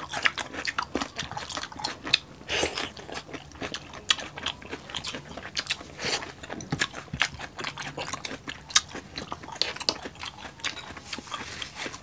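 Close-up eating sounds of two people biting and chewing string beans and crispy pork belly: many quick, irregular crunches and bites.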